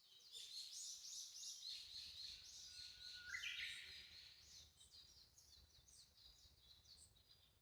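Wild songbirds singing: a dense run of rapid, repeated high notes for the first half, thinning to scattered fainter notes.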